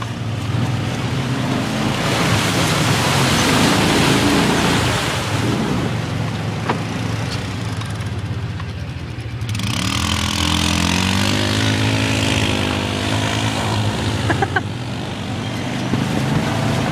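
Off-road vehicle engine running through a mud puddle, with a loud rush of spraying water for a few seconds, then revving up with rising pitch about ten seconds in.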